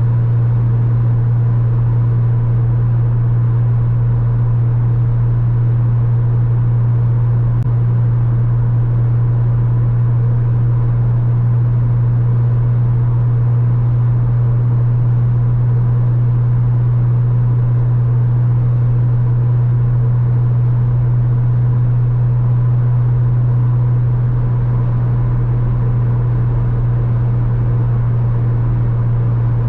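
Porsche Boxster 986 flat-six engine running at steady revs, a constant low hum that holds one pitch with road rumble beneath, easing off very slightly near the end.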